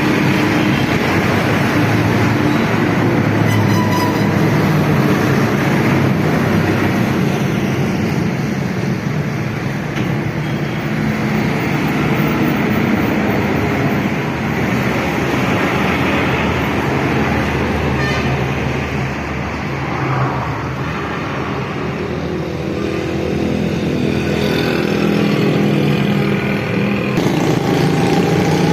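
Motor vehicle noise: engines running amid steady road traffic, a continuous din with a low engine hum that rises and falls.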